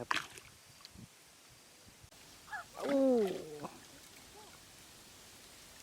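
A single drawn-out voice call, about a second long and falling in pitch, in the middle of a quiet stretch.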